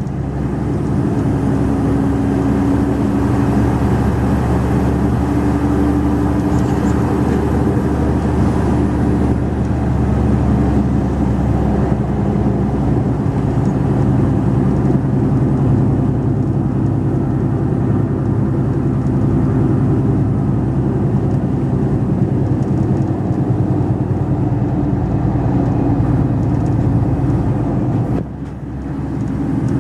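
Mercedes-Benz Actros 2546 truck's diesel engine running steadily under way, with road noise; the sound drops briefly near the end and then comes back.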